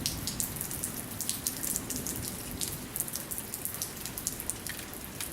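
Light rain falling, a steady patter with many separate raindrops ticking close by.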